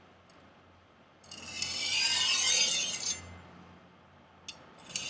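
Steel knife edge drawn across a Fallkniven DC4 pocket whetstone: one long gritty scrape of about two seconds, a small click, then a second stroke starting near the end. The edge is being worked to remove a rolled-over factory edge.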